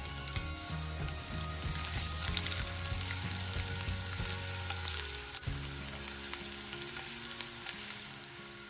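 Chopped garlic, cumin seeds and black peppercorns sizzling in hot melted butter in a nonstick frying pan, with a steady crackle of small pops, while a silicone spatula stirs them. The sizzle eases a little about halfway through.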